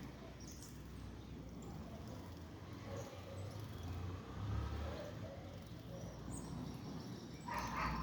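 A few brief, scattered bird chirps over a steady low outdoor rumble, with a louder short burst near the end.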